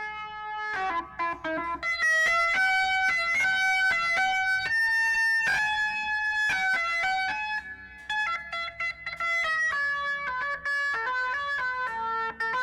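Electric guitar playing a melodic line of single sustained notes, run through a tape saturation unit.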